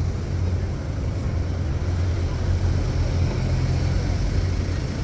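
Steady low rumble of city street traffic, with no single vehicle or event standing out.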